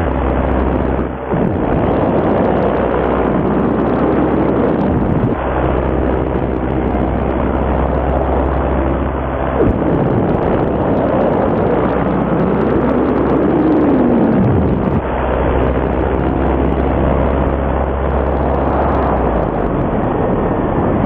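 Two-stroke paramotor engine (Fresh Breeze Simonini) running in flight, with wind on the microphone; its pitch rises and falls. About nineteen seconds in, the low engine note drops away as the engine quits, leaving mostly wind.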